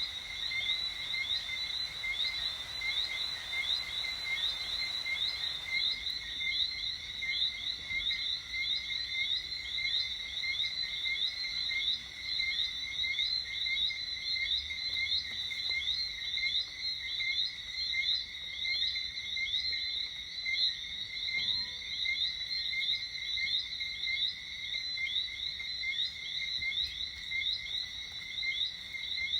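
Evening chorus of frogs: many small, high-pitched chirping whistles repeating and overlapping without a break. A faint hiss underneath stops about six seconds in.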